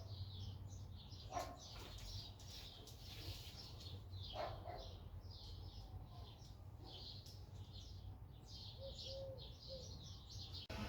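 Birds chirping over and over, faint, with a few sharper calls and a low steady hum underneath.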